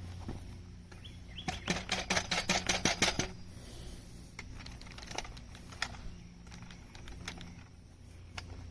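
Light metal clicks and taps from handling the aluminium parts and hardware of a portable chainsaw mill during assembly: a quick run of about fifteen clicks starting about a second and a half in, then a few scattered taps, over a steady low hum.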